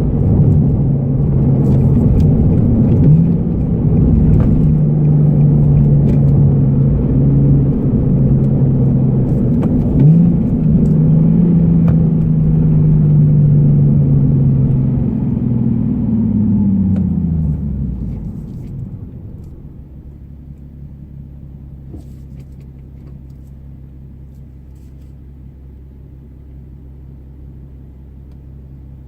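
Interior sound of a Nissan Fairlady Z34's 3.7-litre V6 with a Be Free aftermarket muffler, cruising at steady revs with two brief breaks in the note. About 16 seconds in, the note falls away as the car slows, and it settles into a much quieter steady low hum, like idling, for the last ten seconds.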